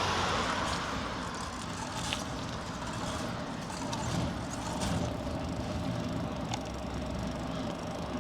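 Bicycle rolling along a path: steady tyre noise with a few sharp clicks and rattles.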